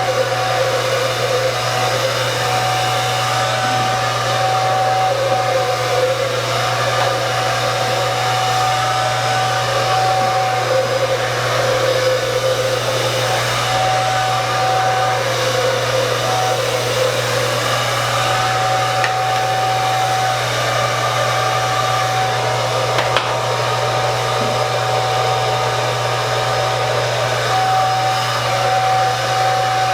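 Handheld hair dryer running continuously, blowing air through thick hair, a steady hum with a thin whine that comes and goes as the dryer is moved.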